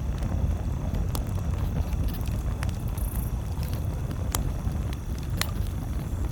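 Campfire crackling, with a few sharp pops from the burning wood over a steady low rumble.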